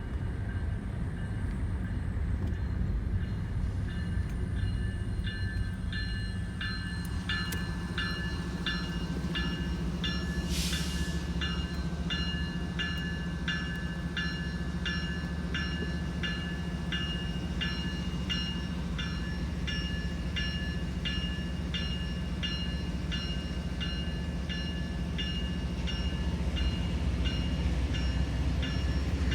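Freight train rumbling steadily, with a bell ringing in an even rhythm, about three strikes every two seconds, starting a few seconds in. A short hiss cuts through near the middle.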